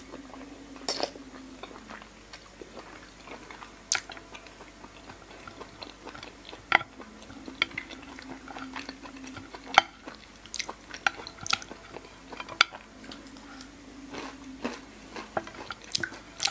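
Close-miked chewing and mouth smacks of a person eating soy-marinated raw salmon and noodles, with many short sharp clicks scattered through.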